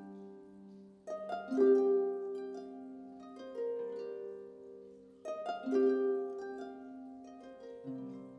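Slow instrumental music on a plucked string instrument: a chord is struck about a second in and again about five seconds in, each followed by single notes picked out one by one that ring and slowly fade.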